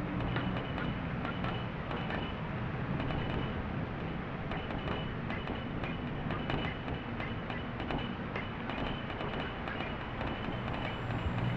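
Rain falling: a steady hiss dotted with many small, irregular ticks of drops striking a surface.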